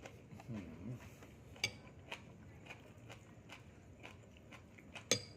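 Eating at a table: cutlery clicking against a dish a few times, the loudest click near the end, with a brief low murmur of a voice about half a second in.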